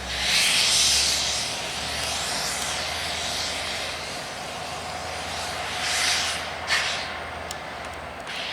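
Freight train rolling past with a steady low rumble, broken by loud bursts of hissing near the start and again about six seconds in, plus a sharp hiss just before seven seconds and light clicks near the end.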